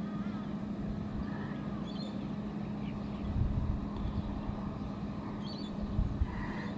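12 V portable fridge compressor running with a steady low hum, set to max.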